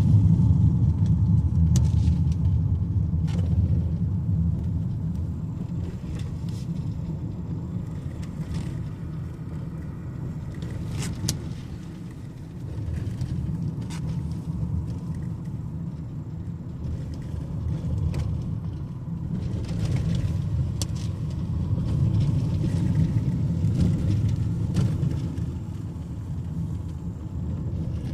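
Car driving, heard from inside the cabin: a steady low rumble of engine and tyres that swells and eases with the road, with a few scattered faint clicks.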